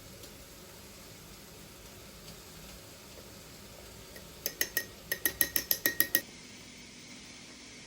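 A metal utensil clinking rapidly against a dish, about eleven quick ringing taps in under two seconds, a little past the middle.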